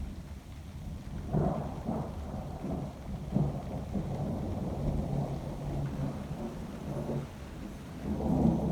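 Thunder rumbling in rolling peals, swelling about a second and a half in, again around three and a half seconds, and loudest near the end.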